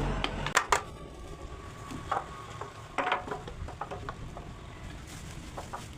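A few scattered light knocks and clicks of wooden pieces and hand tools being handled on a workbench, the two sharpest about half a second in and a smaller cluster about three seconds in.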